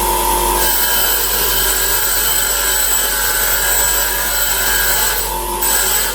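Electric power tool running steadily under load, cutting in suddenly at the start and easing off briefly near the end, as when parts are ground or sanded during restoration work.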